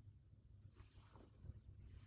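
Near silence: a low steady room hum, with a faint brief rustle about halfway through and another short one near the end.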